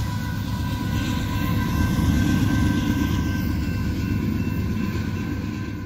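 Canadian Pacific train rumbling past a grade crossing, with a faint steady high-pitched whine over the low rumble, slowly fading.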